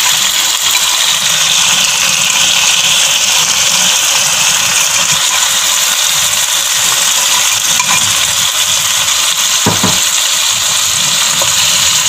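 Chicken pieces, ground spices and tomato paste sizzling in hot oil in a pot, a steady loud hiss. One soft knock comes about ten seconds in.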